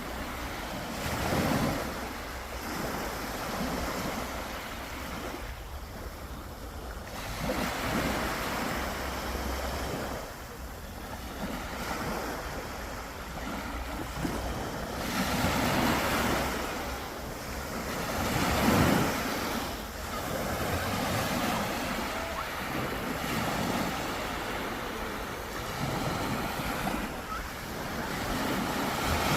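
Sea waves breaking and washing up the shore, the surf swelling and falling back every few seconds, with the loudest break about two-thirds of the way through.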